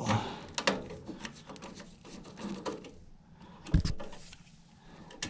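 Small clicks and knocks of hands working wires and tools at a furnace control board, with one heavier thump a little before four seconds in.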